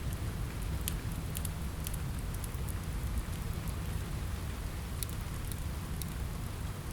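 Steady rain on a window mixed with a crackling wood fire: an even hiss with a low rumble underneath and scattered sharp ticks and pops.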